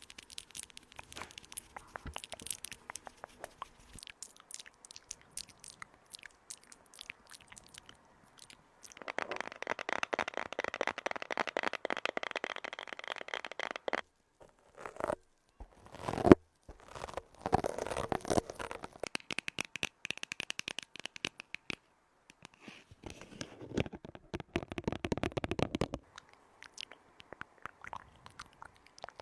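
Close-up crunching and scraping made of dense rapid clicks, coming in bursts with short pauses between, and one sharp knock about sixteen seconds in.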